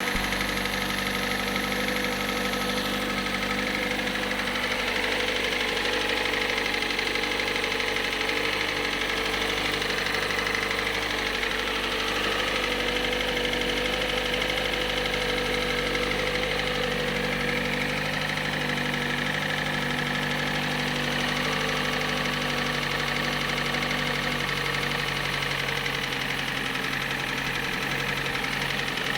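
Hyundai i40's 2.0-litre G4NA four-cylinder petrol engine running steadily with a rhythmic knock, which the owner puts down to cylinders 4 and 1.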